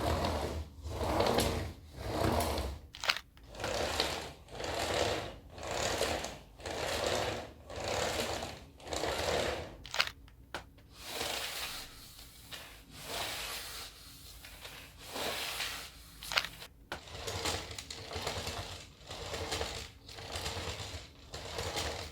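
Cordless stick vacuum floor heads with spinning brush rollers running over a hard floor, the noise swelling and fading about once a second. The character of the noise changes a couple of times as different models take their turn.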